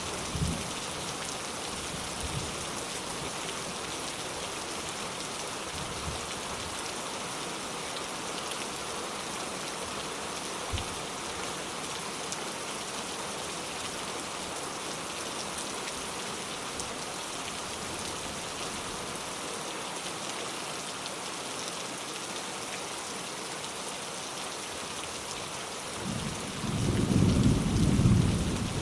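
Steady rain falling, an even hiss. About 26 seconds in, a low rumble of thunder swells, and it is the loudest sound by the end.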